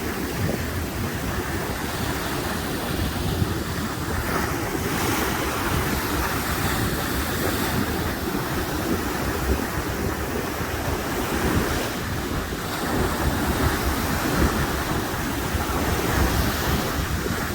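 Sea waves washing in steadily, with wind blowing across the microphone.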